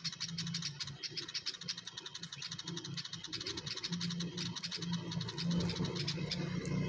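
Small birds chirping in quick repeated high notes, over a low hum that grows louder from about four seconds in.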